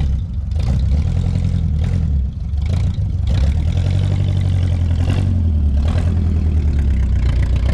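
A vehicle engine running with a steady low drone, with a brief dip a couple of times and a few faint knocks.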